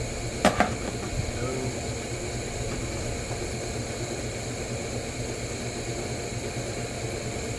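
Steady mechanical hum and hiss, like a running fan or machine, with two sharp knocks about half a second in.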